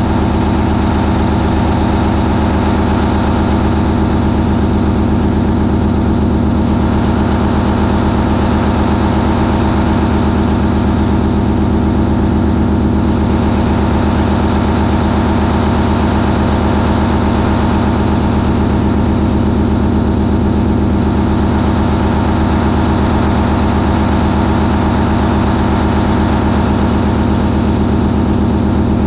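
MAN 20V28/33D STC twenty-cylinder V marine diesel engine running steadily at a constant 980 RPM, a dense, unchanging drone with strong low engine tones.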